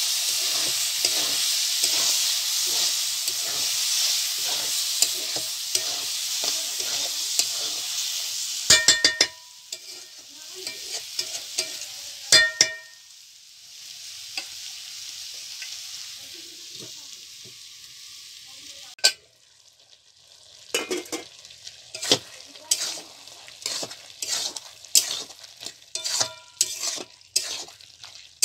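Goat liver, lung and stomach pieces frying in a steel wok, stirred with a metal spatula: a steady sizzle with rhythmic scraping strokes. The spatula knocks the pan with a ringing clink twice, about nine and twelve seconds in, after which the sizzle dies down and the stirring goes on as scattered scrapes and clinks.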